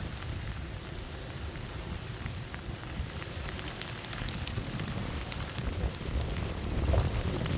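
Storm wind gusting, with a low rumble of wind on the microphone and scattered sharp raindrop ticks; a stronger gust swells about seven seconds in.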